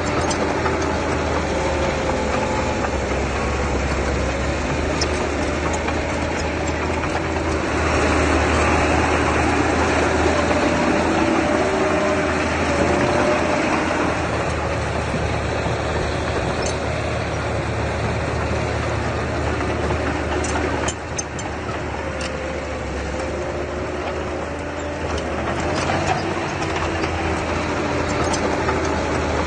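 Diesel engine of a mini bulldozer running steadily at work, its pitch drifting a little with load, growing louder for several seconds about a third of the way in and dipping briefly after the middle.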